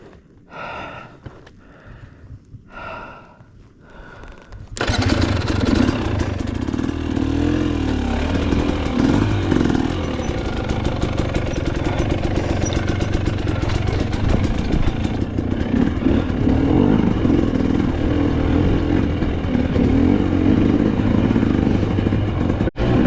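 Dirt bike engine running under way on a rough trail, its pitch rising and falling with the throttle, with heavy noise over it. It starts suddenly about five seconds in, after a quieter stretch.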